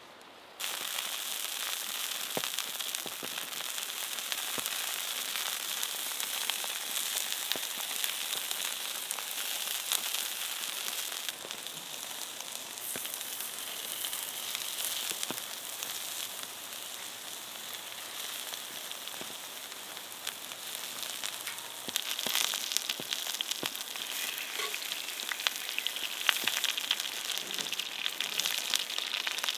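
Sweet potato fries sizzling in hot oil: a dense sizzle full of small crackles and pops. It starts suddenly just after the beginning and gets louder about two-thirds of the way through.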